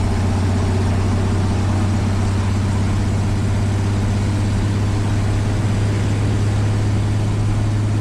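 1965 Chevrolet C10's inline-six engine pulling steadily in third gear, its top gear on the three-speed column-shift manual, as the truck gathers highway speed: a loud, steady low drone.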